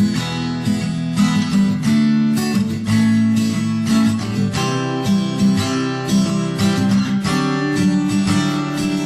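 Acoustic guitar strumming chords in a steady rhythm, an instrumental passage between sung lines of a pop-rock song.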